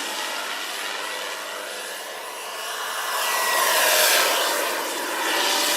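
Radio-controlled airplane in flight, its engine noise swelling as it passes close about four seconds in, then again near the end.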